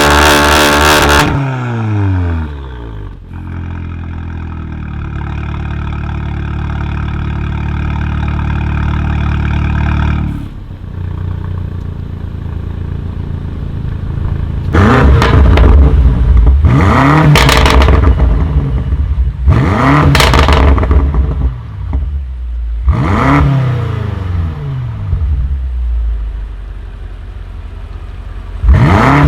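Tuned car engine revving hard, the revs falling away in the first two seconds, then a steady engine note held for several seconds. From about halfway it gives a series of short, sharp throttle blips, one every two to three seconds, with a last one near the end.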